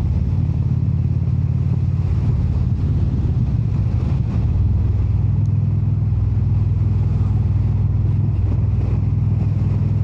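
Indian cruiser's V-twin engine running steadily at road speed, heard from the rider's seat with wind and road noise; a brief dip in loudness about four seconds in.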